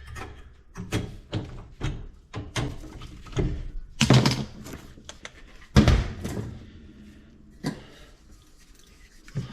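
A series of irregular knocks and thunks, like things being handled and set down, with two louder thuds about four and six seconds in.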